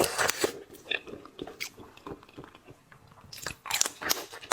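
Close-miked biting and chewing of seafood, with crisp crunching clicks at first. A quieter stretch follows, then another run of crackly crunches near the end.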